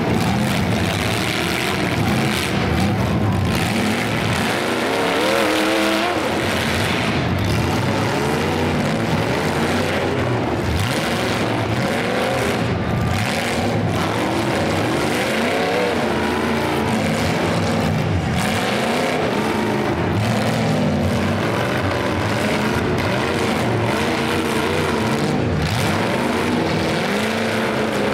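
Several demolition derby cars' engines revving and racing up and down together as the cars push against each other, the pitches rising and falling over one another.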